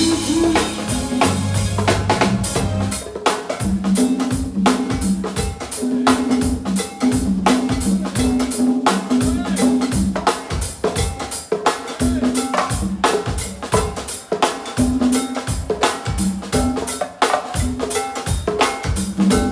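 Live band playing a steady go-go groove: a drum kit with snare and bass drum beating a fast even pattern, over a repeating bass line of short notes.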